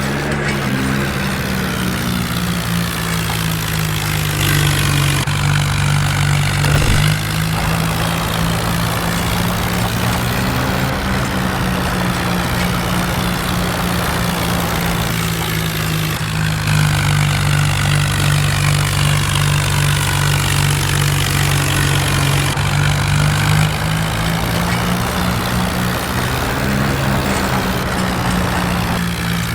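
Diesel tractor engine running continuously, its revs rising and falling, with louder stretches about five seconds in and again in the middle.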